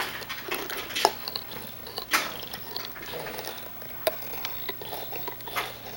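Bulldog chewing and mouthing a rubber dog toy: irregular clicks of teeth on the toy mixed with short snuffling breaths.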